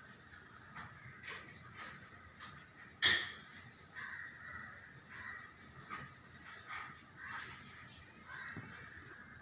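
Birds calling, a run of short chirps and calls over a faint steady background, with one sharp click or knock about three seconds in.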